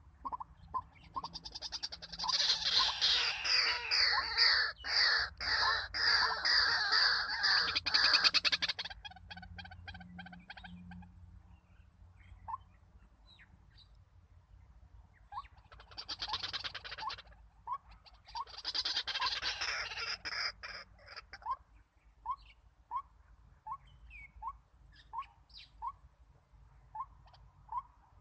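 White-breasted waterhens calling: loud, harsh croaking choruses, one lasting about eight seconds and two shorter ones later. Underneath and between them runs a steady series of short, rising notes, about one a second.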